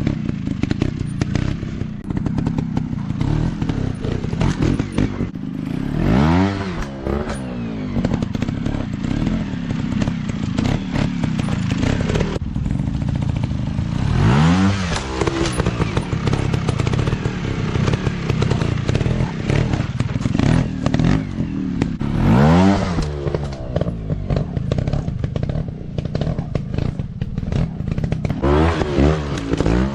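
Off-road dirt bike engines running and revving. The pitch surges up and back down four times, with clattering knocks throughout.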